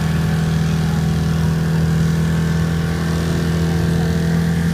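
Dodge Dakota pickup's engine held at high, steady revs during a burnout, its pitch constant throughout.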